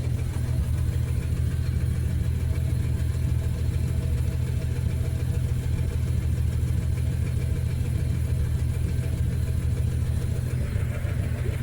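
1962 Dodge Lancer's slant-six engine idling steadily.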